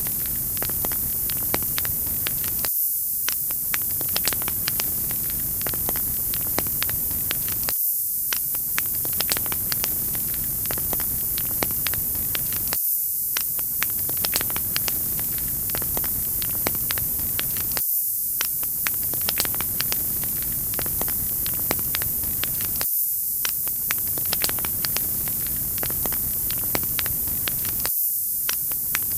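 Wood fire crackling in a fireplace: a steady hiss with many small, sharp pops and snaps. The same few seconds of sound repeat about every five seconds, each time with a brief drop in the lower sound.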